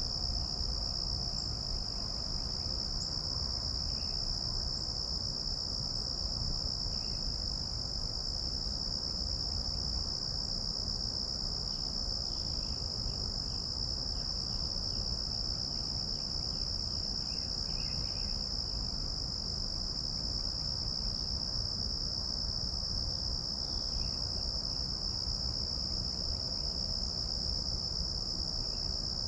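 Insects trilling in one steady, unbroken high-pitched drone, cricket-like, with a few faint short chirps now and then.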